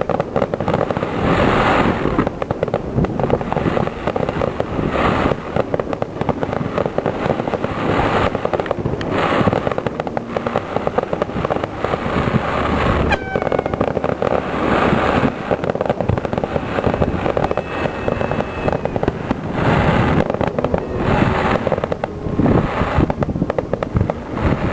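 Fireworks display: a dense, continuous barrage of bangs and crackling that swells in waves, with a short falling whistle about halfway through.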